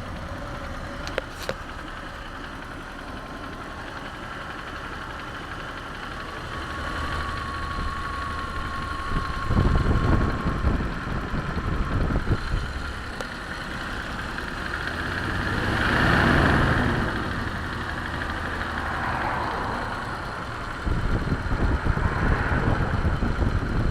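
Toyota Mark II engine running with a knock from low in the engine compartment. The loudness swells once about two-thirds of the way through and rises again near the end.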